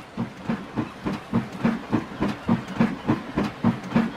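Steam locomotive chuffing at a steady pace, about three puffs a second, starting suddenly.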